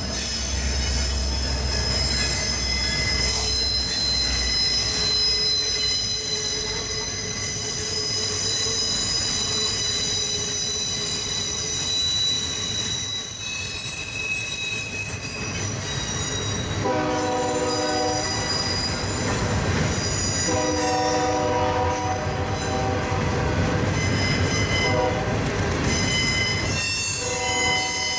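Freight train's container cars rolling past with steady high-pitched wheel squeal over a low rumble. In the second half a diesel locomotive horn blows long, long, short, long: the grade-crossing signal.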